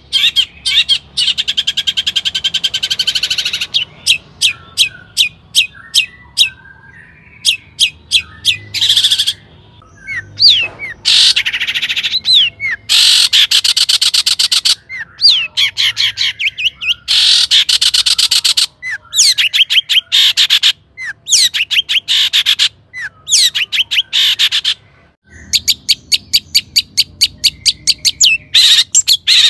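Long-tailed shrike (cendet) singing an agitated song: fast runs of sharp repeated notes and short whistles, in bursts of a few seconds with brief breaks. This is the excited kind of song used as a lure to provoke other shrikes to answer.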